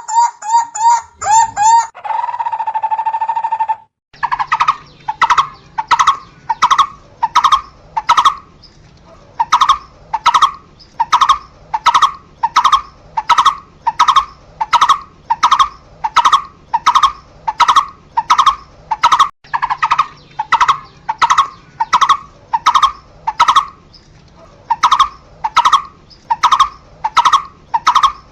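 Barbet calling: first a quick run of short notes and a brief steady trill, then, from about four seconds in, a long series of evenly repeated single notes, about one and a half a second.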